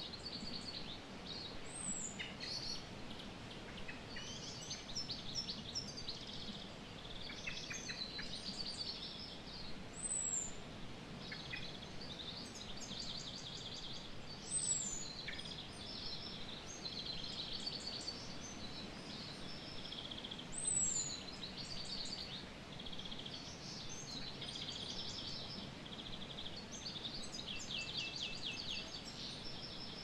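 Birds chirping and calling in the open fen, with many short chirps and quick trills. A high, short downward-sliding call comes back every several seconds, over a faint even hiss.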